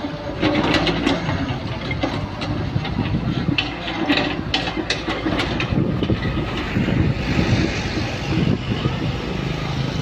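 Diesel excavator engine running while it digs, with repeated metallic clanks and knocks through the first half.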